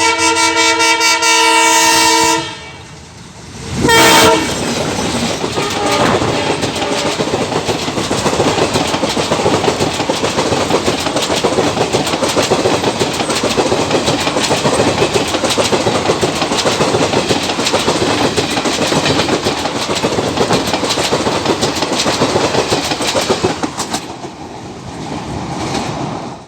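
Indian Railways train horn sounding one long blast, then a short one. A train then passes close by with a rushing rumble and rapid clickety-clack of wheels over rail joints, fading near the end.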